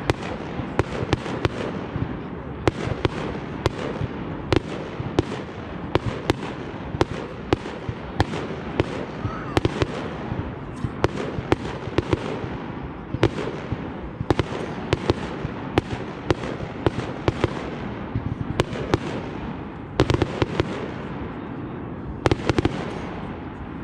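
Fireworks display: a rapid, irregular barrage of sharp bangs from bursting shells, one to three a second, over a continuous noisy background of crackle and rumble.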